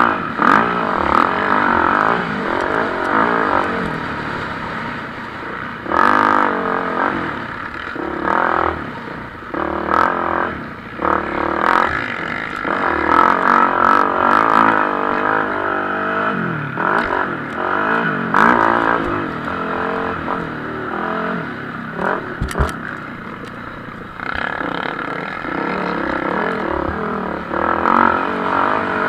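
Motocross bikes racing on the track, their engines revving up and down in pitch as they accelerate and back off, with the sound swelling and fading as they pass.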